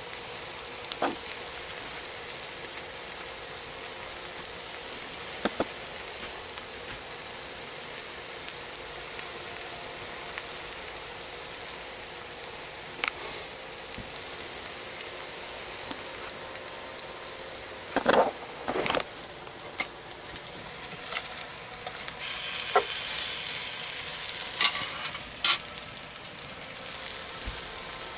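Tuna and egg frying in a frying pan with a steady sizzle. There are a couple of sharp knocks about two-thirds of the way in, and the sizzle grows louder for a few seconds after them.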